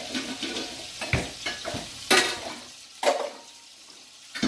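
Hamburger patties sizzling in a griddle pan on the stove, a steady hiss, broken by several sharp clacks of kitchenware, the loudest about two seconds in.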